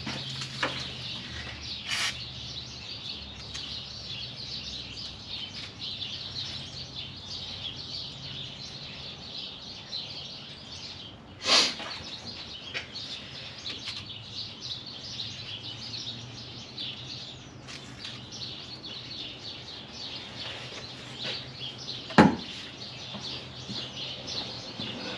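Short hisses of an aerosol penetrating oil (Blaster) being sprayed onto brake line fittings: a brief one about two seconds in and a longer one about halfway. Behind them runs a steady high chirping and a low hum, and there is a sharp click near the end.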